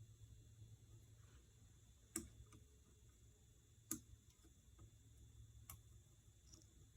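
Three sharp metal ticks spread over several seconds, from a pick working at a stuck washer inside a power steering cylinder, over faint room tone.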